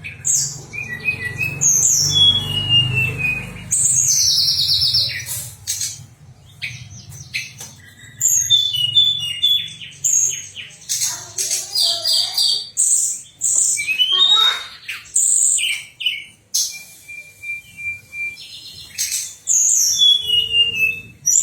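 Tledekan songbird singing a fast, varied song of sharp chirps, falling whistles and short trills, with hardly a pause.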